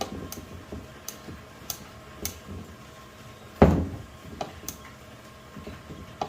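Scattered sharp clicks and taps of tools and parts being handled on a workbench, with one heavy thump about three and a half seconds in.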